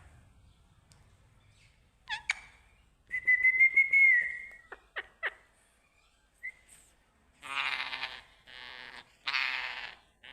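Pet parrot whistling: a quick chirp, then a held whistled note lasting about a second and a half, a few short chirps, and near the end four longer, noisier calls.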